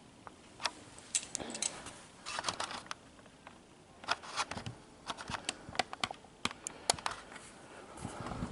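Light, irregular clicks and taps of small plastic and metal parts being handled as a battery power tray is put back together.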